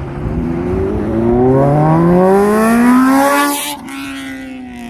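Honda CBR600 sport bike's inline-four engine accelerating hard, its pitch climbing steadily for about three seconds, then dropping sharply and trailing off lower and quieter.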